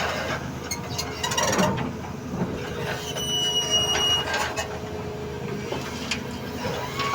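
Doosan 220 excavator working: the engine runs steadily under a whine, with a high squeal about three seconds in lasting about a second and several sharp metallic knocks and clanks.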